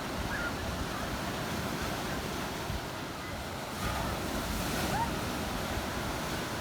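Black Sea surf washing ashore, swelling a little about four seconds in, with wind buffeting the microphone and a few faint short rising cries.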